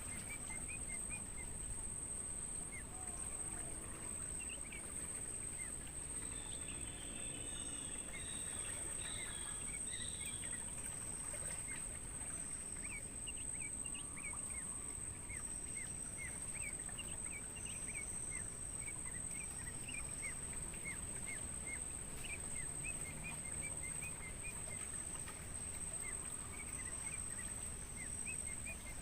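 Crickets trilling in one steady, unbroken high-pitched drone, with many short bird chirps scattered through it.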